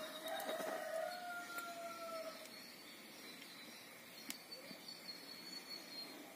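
A rooster crowing once, a drawn-out call of about two seconds that drops slightly at the end, followed by a thin high bird call and a few faint clicks.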